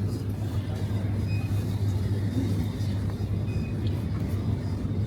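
A steady low hum with background music, and a short high beep about every two seconds.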